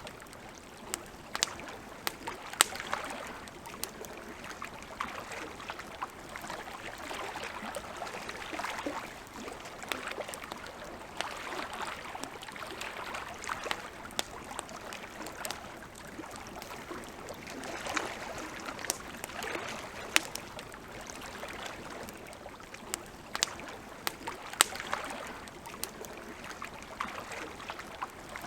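Wood campfire crackling: irregular sharp pops and snaps over a steady hiss that swells and eases every few seconds.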